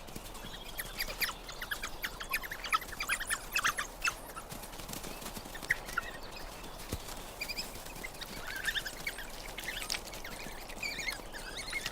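Young coyote pups squeaking and whining, many short high calls in quick clusters.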